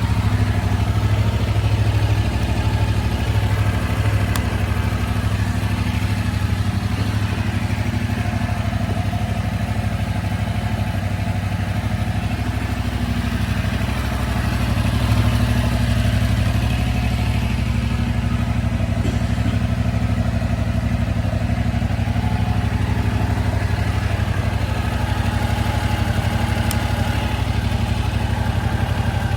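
Yamaha R7's 689 cc CP2 parallel-twin engine idling steadily.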